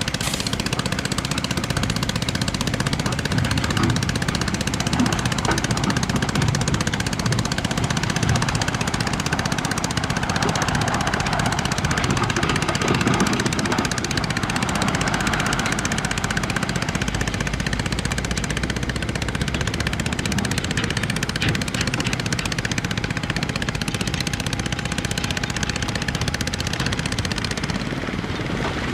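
Diesel engines of heavy earthmoving machinery, a bulldozer and a wheel loader, running steadily while working gravel and rock.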